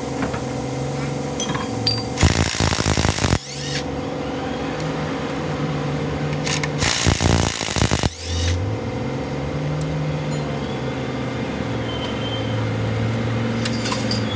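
An engine idles steadily, its pitch drifting slightly. Two loud bursts of a power tool, each lasting about a second, come about two seconds in and again about seven seconds in.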